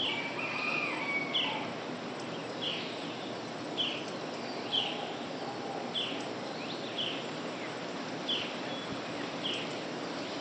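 Morning bird chorus: one bird repeats a short, high, falling call about once a second. Another bird gives a warbling call over it for a second or so near the start.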